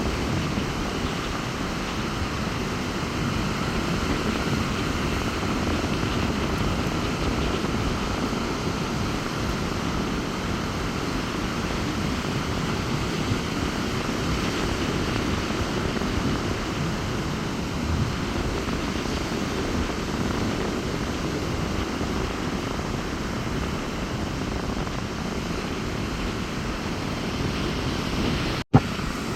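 Steady sea surf washing onto the beach in strong wind, with wind rumbling on the microphone. A sudden click and a momentary break in the sound come near the end.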